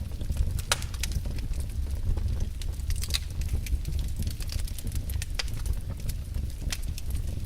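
Wood fire in a fireplace crackling: frequent sharp pops and snaps at irregular intervals over a steady low rumble.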